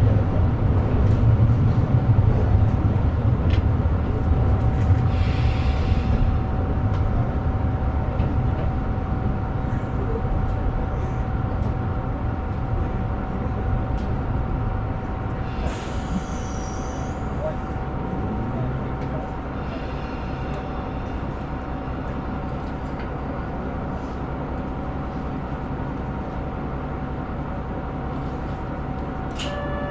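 KiHa 125 diesel railcar running along the line, with a steady hum over the rumble of the engine and wheels on rail. The low engine rumble eases off gradually over the first twenty seconds and then runs on evenly.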